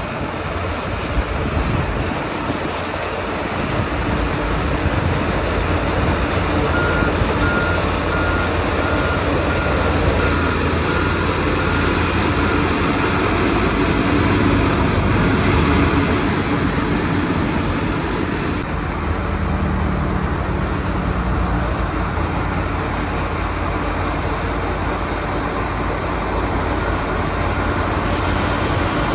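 Heavy diesel earthmoving machinery running steadily, with a reversing alarm beeping at an even pitch, about two beeps a second, for several seconds a third of the way in and again near the end.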